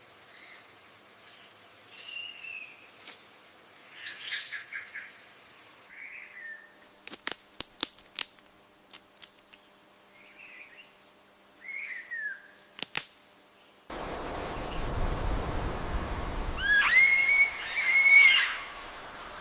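Bird chirps and short whistled calls, then a run of sharp clicks through the middle. A little after two-thirds of the way in, a louder low rushing noise starts abruptly, and two loud, clear whistled bird calls come near the end.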